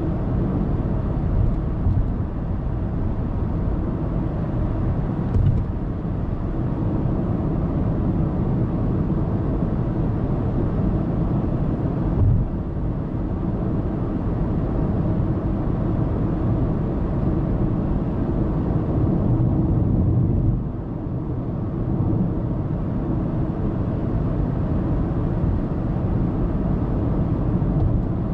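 Steady road noise of a car cruising on an expressway: tyre roar and engine hum, picked up by a dashcam inside the car. There are brief thumps about five and twelve seconds in, and a short dip in level about twenty seconds in.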